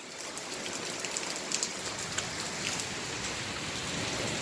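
Rain falling: an even hiss with scattered drop ticks, growing slightly louder toward the end.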